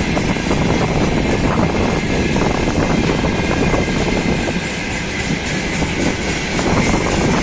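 Freight train tank cars rolling past close by: a steady, loud noise of steel wheels on the rails, with faint clicks mixed in.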